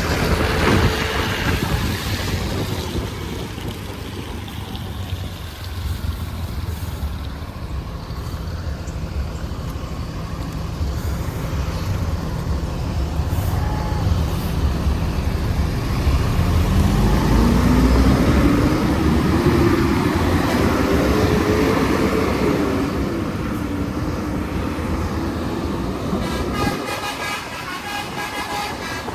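Heavy diesel road vehicle engine running, a bus or truck, with its pitch rising steadily for several seconds past the middle as it pulls under load, then levelling off.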